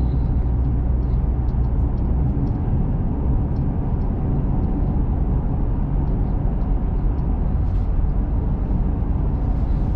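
Steady road and engine rumble heard inside the cabin of a small truck driving along a road.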